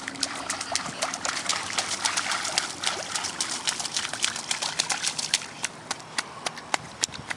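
Water pattering and splashing: many sharp, irregular taps over a steady wet hiss.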